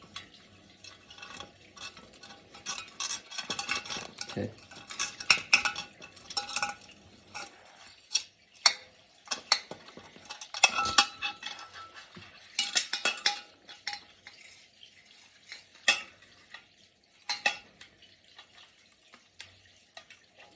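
Small metal parts of a water heater's pilot light assembly clinking, scraping and rattling as they are handled and fed through a hole, in irregular bursts of clicks with short pauses.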